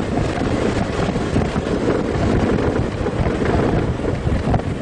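Strong wind rushing and buffeting the microphone through a car's open windows, a steady heavy rumble.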